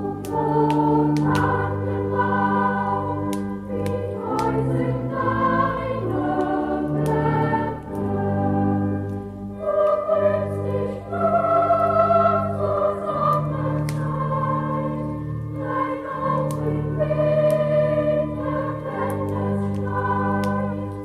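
Christmas choral music: a choir singing sustained notes with organ accompaniment, with faint sharp crackles scattered through it.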